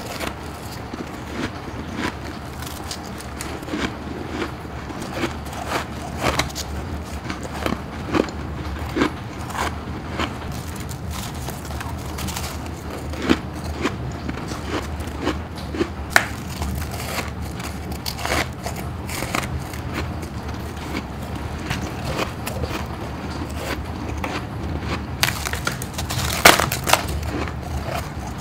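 Close-miked biting and chewing of freezer frost ice: a steady run of crisp crunches and crackles, with the loudest cluster of crunches near the end.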